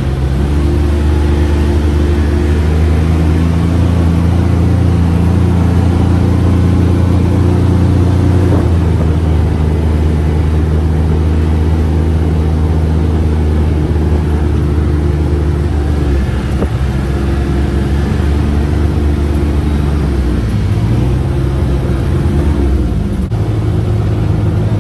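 UTV engine running while under way, its pitch stepping up and down several times as the speed changes.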